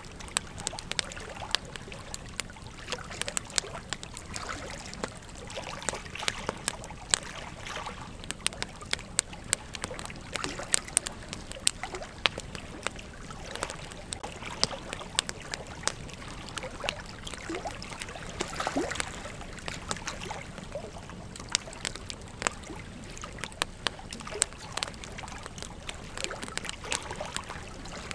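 Wood campfire burning: frequent, irregular sharp crackles and pops over a steady hiss.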